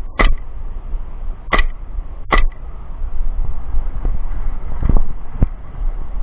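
Three sharp airsoft gun shots within the first two and a half seconds, over a steady low wind rumble on the microphone; a few duller knocks follow later.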